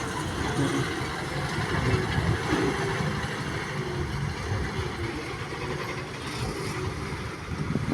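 Heavy diesel engine idling with a deep, uneven running sound.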